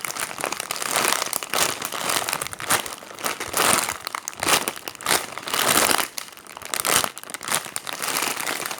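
Crinkling and rustling in irregular bursts as a bread-shaped foam squishy toy is squeezed and handled.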